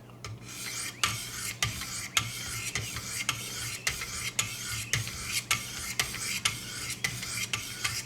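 Sharpening stones of a guided knife-sharpening system rasping along a VG-10 knife blade in light alternating strokes, about two strokes a second, as the edge is worked on the grit stage before 600.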